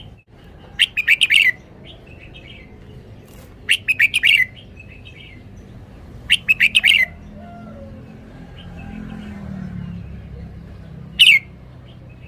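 Red-whiskered bulbul singing: three short, rapid phrases of several notes each, a few seconds apart, then a single brief note near the end.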